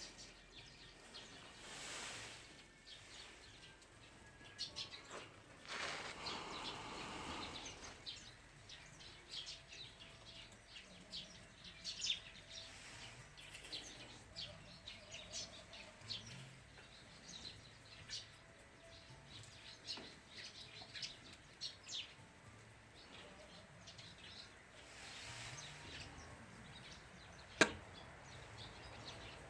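Birds chirping, many short high chirps scattered throughout, with a couple of brief rustling swells early on and a single sharp click near the end.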